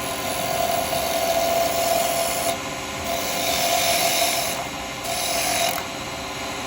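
A freshly sharpened round carbide cutter cutting a small wooden pot spinning on the lathe, in three passes, the longest about two seconds at the start.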